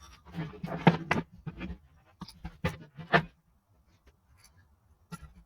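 A run of short, irregular clicks and knocks for about three seconds, then near quiet apart from a few faint ticks and one last click near the end.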